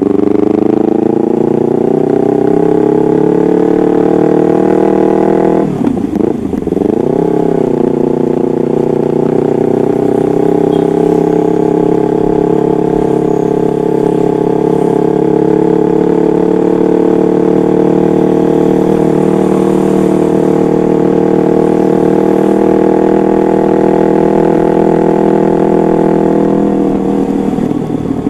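Yamaha MT-25's parallel-twin engine running through an aftermarket exhaust: the pitch climbs for about five seconds, drops sharply and swoops back up near six seconds, then climbs again and holds nearly steady for about twenty seconds before falling away near the end.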